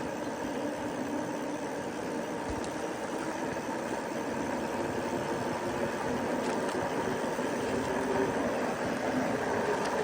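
Lectric electric bike on the move: steady rolling and wind noise with a faint steady hum, growing gradually louder.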